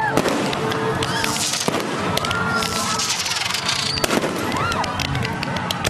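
Fireworks display: rapid crackling bursts and pops with several whistles that rise and fall. Faint music runs underneath.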